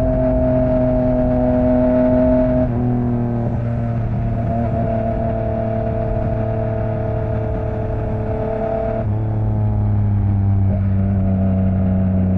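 Yamaha MT-09's inline-three engine running through an Akrapovič exhaust under steady riding. It holds a steady note that steps down in pitch twice, about three seconds in and again about nine seconds in.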